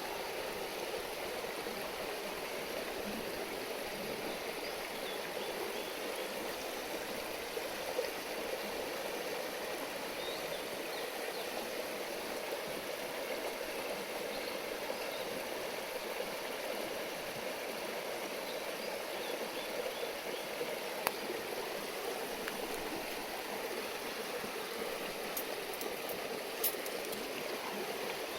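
Steady rushing murmur of a river stream, with a few brief sharp pops scattered through it.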